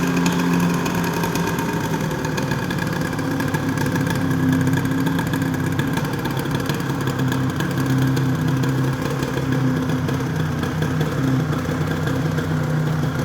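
Suzuki RGV250 VJ22A's two-stroke V-twin idling steadily while warming up after a cold start, its expansion pipes still cold.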